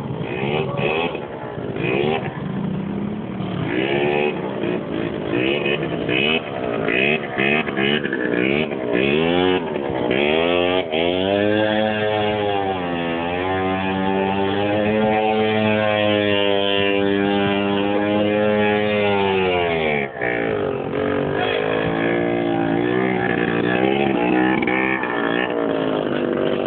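Quad bike engine running under the throttle, its pitch rising and falling. Partway through it climbs and holds a high steady pitch for several seconds, then drops back sharply and varies again.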